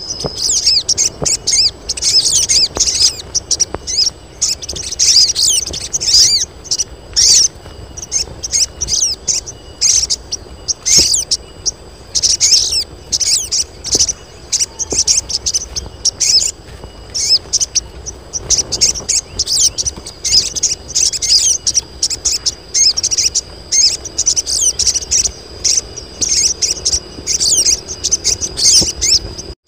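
A group of female sogon birds calling in dense, rapid high chirps and short trills, one over another without pause: the busy calling of females in breeding condition that is used to draw male sogon.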